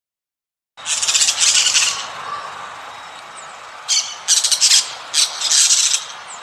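Harsh bird squawks over a steady hiss: a burst of squawking about a second in, then a second group of sharper squawks about four seconds in.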